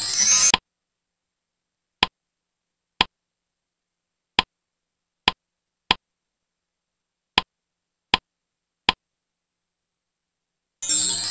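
Eight short, sharp clicks, unevenly spaced about a second apart, as the presentation slide's words and phonetic symbols pop in one by one. A brief burst of hissing noise sounds at the very start, and another begins near the end.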